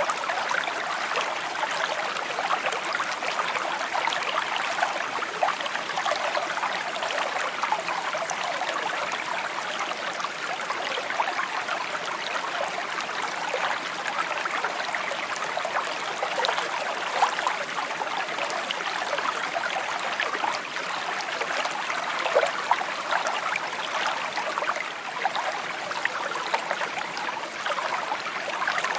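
A shallow stream babbling and trickling over rocks, a steady bright splashing with many small droplet ticks.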